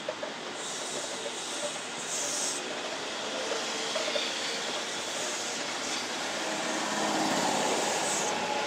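Kintetsu electric train approaching on the track, its rushing noise growing steadily louder, with several steady whining tones strengthening near the end.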